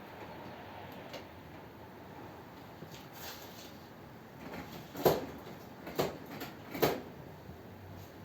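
Three sharp knocks about a second apart over a low, steady background hiss, the first the loudest.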